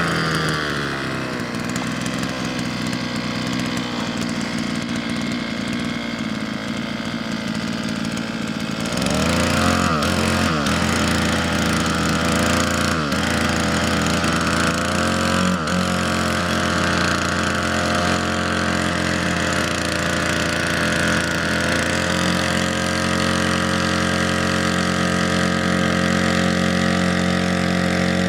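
Homemade outboard motor built from a Chinese brush-cutter engine, running continuously. It drops to a lower speed about a second in, picks up and gets louder about nine seconds in, sags briefly in pitch a few times, then runs steady.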